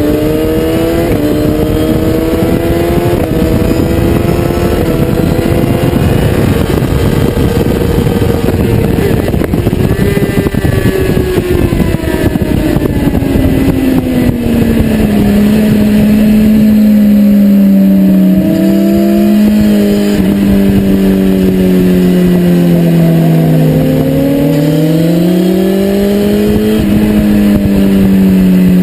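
2010 BMW S1000RR's inline-four engine running at track speed, with wind rushing over the microphone. The engine pitch climbs in the first few seconds, falls between about ten and fifteen seconds in, holds low, dips once more and climbs again near the end.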